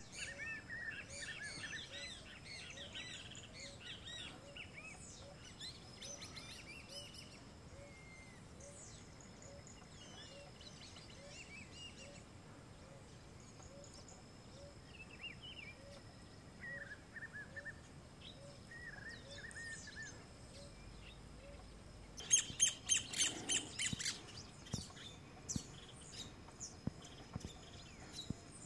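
Several wild birds calling and chirping, busiest in the first few seconds and then scattered, over a faint steady high insect hum. About 22 seconds in comes a loud burst of rapid, harsh rattling notes lasting about two seconds, then a few scattered clicks.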